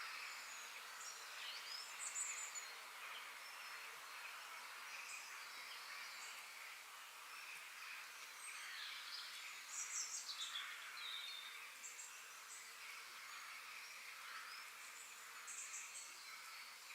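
Forest ambience: birds chirping and calling at scattered intervals, with small clusters of quick high chirps about two seconds in, around ten seconds and near the end, over a steady faint hiss.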